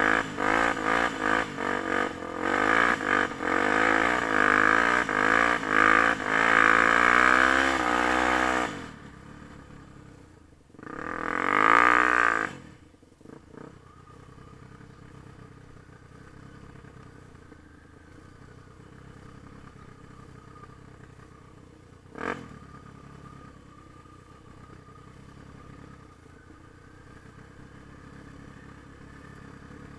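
Yamaha TT-R250's four-stroke single-cylinder engine revving hard, its pitch rising and falling with throttle and gear changes for about nine seconds, then dropping to a quiet idle. There is one short rev about twelve seconds in, and a single sharp click near the two-thirds mark.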